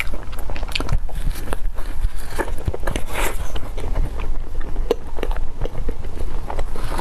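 Close-miked biting and chewing of a thick slice of custard-topped toast with sliced almonds: soft, wet mouth sounds with many small, sharp clicks and crackles.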